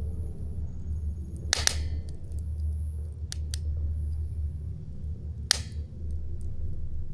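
Wood campfire burning, with a few sharp pops as the burning wood cracks; the loudest come about a second and a half in and again near the end, over a steady low rumble.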